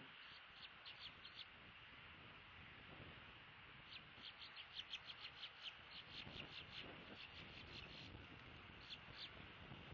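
A bird calling in quick series of short, high chirping notes: a few near the start, a long run of a dozen or more from about four to eight seconds in, and two or three near the end, faint over a steady outdoor hiss.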